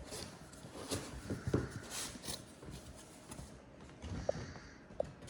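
A model packaging box being handled and put back together: rustling, light knocks and taps, with a few short squeaks near the end.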